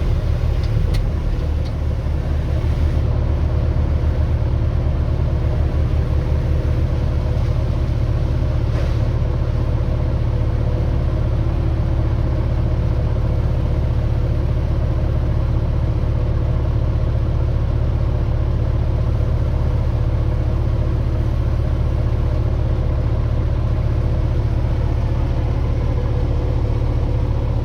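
Diesel engine of a logging machine running steadily, a low drone heard from inside the machine's cab.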